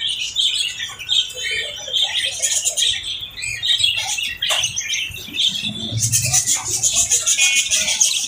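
Lovebirds chattering: a dense stream of high chirps and squeaks. There is one sharp click about four and a half seconds in, and a faster, rattling run of chatter from about six seconds to the end.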